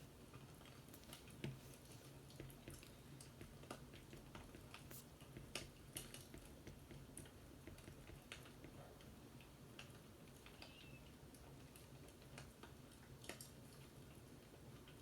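Faint crackling of a wood fire: irregular small pops and snaps over a low steady hum.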